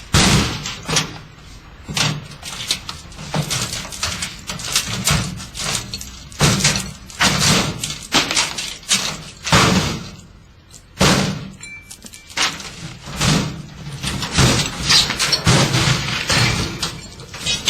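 A washing machine being smashed: heavy blows land roughly once a second in an irregular rhythm, with crashing, breaking and glassy clinking.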